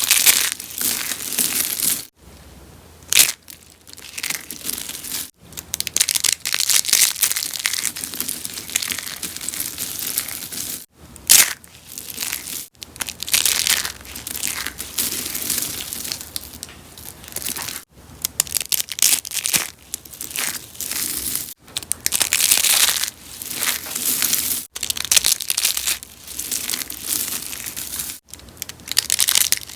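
Rose soap being crushed, with continuous dense crunching and crackling. Short breaks interrupt it every few seconds.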